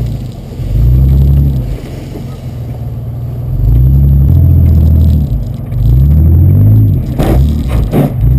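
Car engine revving in repeated surges about a second apart while driving a rough dirt trail off-road. Near the end there are two short, sharp noises.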